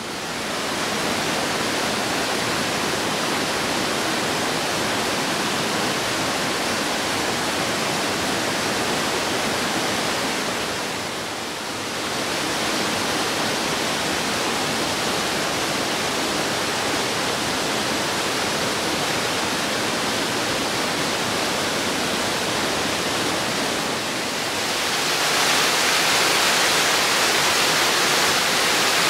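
Waterfall rushing: steady noise of falling water that dips briefly about a third of the way in and grows louder near the end.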